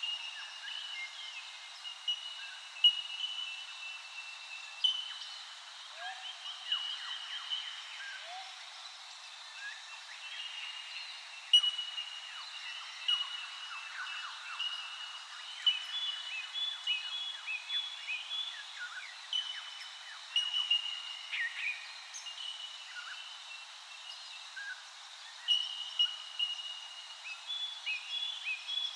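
Many birds calling over one another in a steady dawn-chorus-like ambience: short high chirps and whistled notes, some sliding down in pitch, with a few louder single calls standing out.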